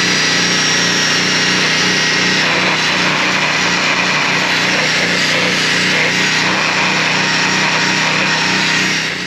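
A small engine or power tool running steadily and loudly, cutting off abruptly at the end.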